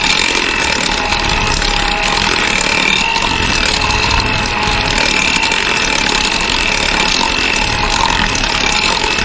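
Electric hand mixer running steadily, its beaters whipping softened butter in a glass mixing bowl, with a constant high motor whine.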